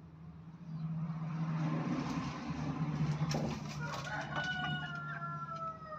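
A wild junglefowl rooster crowing: a rough, noisy opening builds up, then one long held note sags slightly in pitch and ends as the crow finishes.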